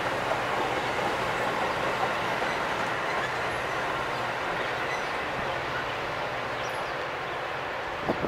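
A train rolling past with steady wheel-on-rail noise, and a couple of sharp knocks near the end.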